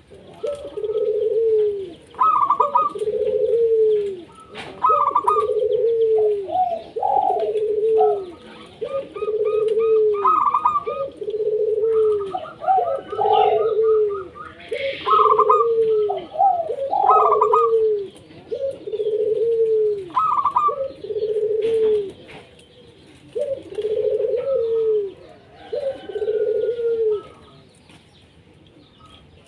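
Zebra doves cooing: short staccato phrases repeated over and over, about one every one and a half seconds, some overlapping. The cooing stops near the end.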